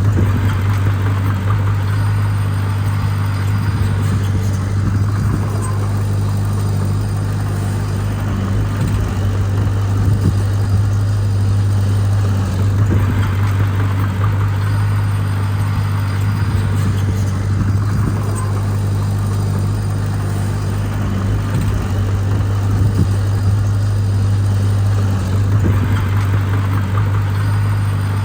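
Diesel engine of heavy earthmoving equipment running steadily with a constant low drone, overlaid with intermittent rough grinding noise.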